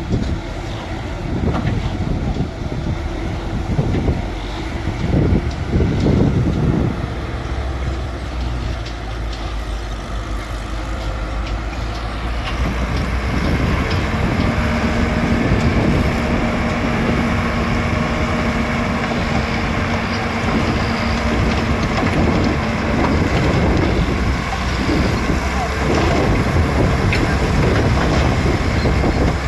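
Bulldozer's diesel engine running under load as it works, surging unevenly at first and then settling, with a steady higher note held for several seconds in the middle.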